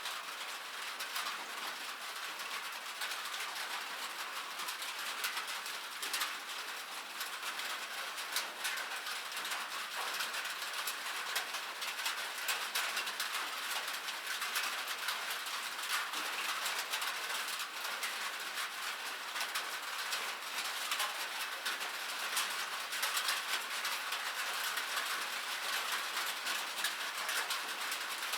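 Steady rain falling on a metal surface: a dense patter of drops ticking and rattling on the metal, even throughout.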